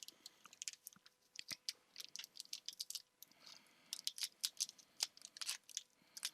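Pokémon trading cards being handled and slid about: many quick, irregular light clicks and flicks of card stock, with a couple of brief rustles.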